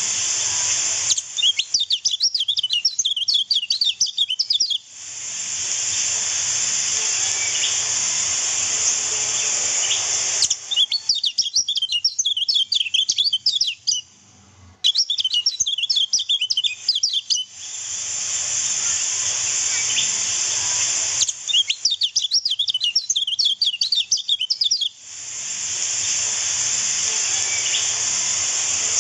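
Kecial kuning white-eyes singing in bursts of fast, high twittering chirps a few seconds long, three times, cut in between long stretches of steady rushing-water hiss. A masteran track used to train and stir caged songbirds.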